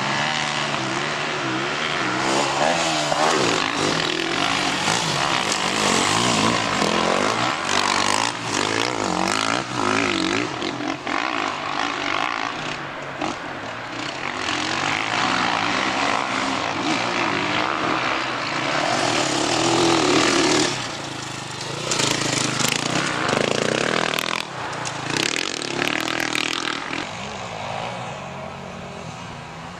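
Off-road motorcycles racing on the course, their engines revving up and down as they go through the gears and pass by, the sound fading somewhat near the end.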